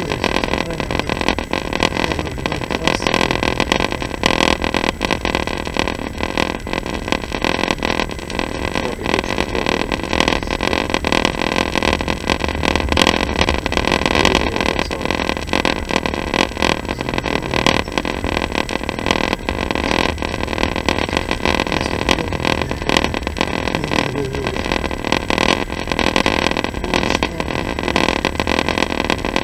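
Passenger train running, heard from inside the carriage: a steady running noise of wheels and carriage with a dense, irregular rattle.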